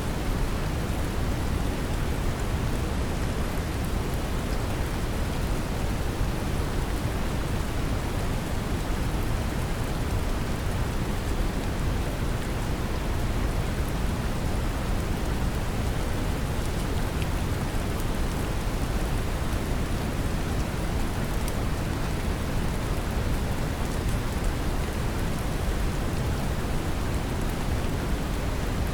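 Steady brown noise, a deep even rushing hiss, mixed with gentle rain falling, with faint scattered drop ticks.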